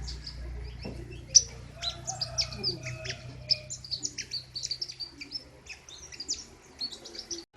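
A songbird of the kind sold as "king koni" singing a loud, continuous run of short, sharp, high chirps and trills, with one especially loud note about a second in. A faint low hum runs underneath.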